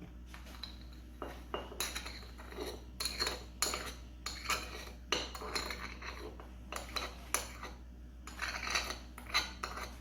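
A spoon scraping and clinking against a cup in a string of short, irregular scrapes and taps, as sugar is spooned into the cup.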